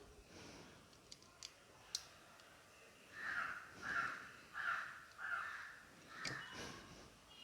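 A crow cawing five times in a row, one call roughly every two-thirds of a second, starting about three seconds in. A few faint sharp clicks come before the calls.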